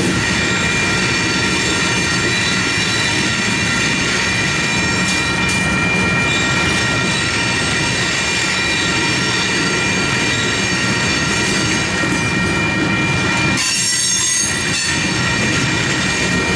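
Coal train cars rolling past a level crossing: a steady rumble and rattle of wheels on rail, with a continuous high-pitched squeal over it. About three quarters of the way through, the rumble briefly drops and the squeal rings out higher and sharper.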